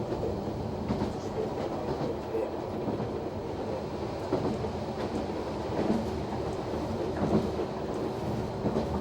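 Noto Railway NT100 diesel railcar running along the line, a steady rumble with the wheels clicking over rail joints now and then.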